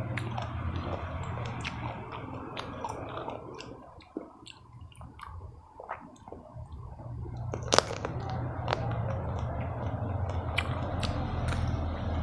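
Close-miked chewing of chewy tteokbokki rice cakes in sauce, with many wet mouth clicks and smacks and one sharper click near the end, over a steady low hum.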